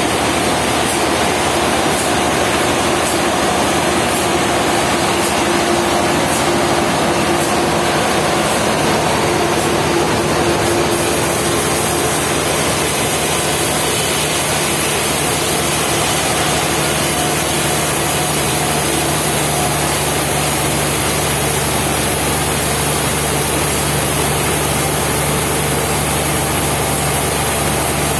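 Sawmill machinery running steadily with a loud mechanical noise. Its sound changes about eleven seconds in, when a higher hiss and a low hum come in.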